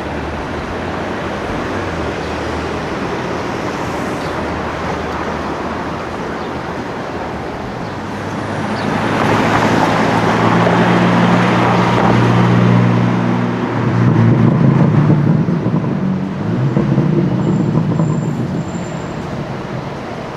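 Street traffic noise, then a sports car's engine and exhaust grow loud about eight seconds in as it drives past, its steady engine note dipping briefly twice before fading near the end.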